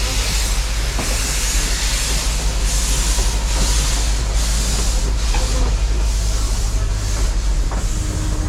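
Steam train running: a steady low rumble under hissing that pulses roughly once a second.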